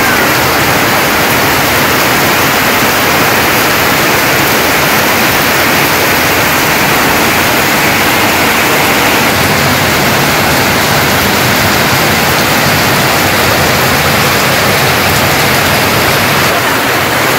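Heavy rain pouring steadily on corrugated tin roofs and a waterlogged yard, a dense unbroken hiss.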